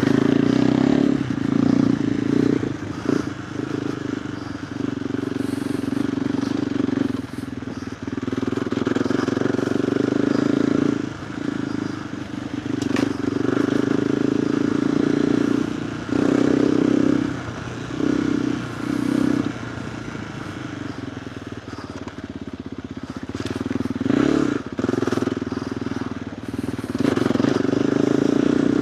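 KTM 390 Adventure R's single-cylinder engine through a Norifumi Whoops stainless slip-on exhaust, ridden off-road. The exhaust note swells and drops again and again as the throttle is opened and closed, easing off to a quieter stretch in the middle before pulling hard again near the end.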